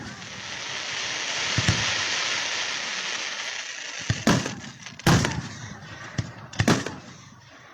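Fireworks display: a long hiss that swells and fades over the first few seconds, then several sharp booming shell bursts in the second half, three of them loud.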